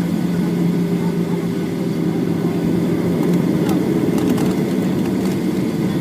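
Steady, loud cabin noise of a Boeing 737-8 with its CFM LEAP-1B engines running, a low steady hum under an even rush of air. A few faint clicks come a little past the middle.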